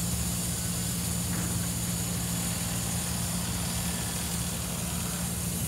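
A heavy engine running steadily at an even speed, a constant low hum with a hiss above it.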